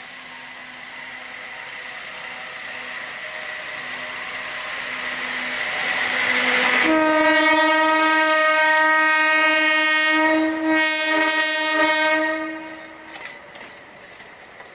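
Alishan Forest Railway train approaching, its running noise growing steadily louder, then one long horn blast of about five seconds starting about halfway through. The noise falls away near the end.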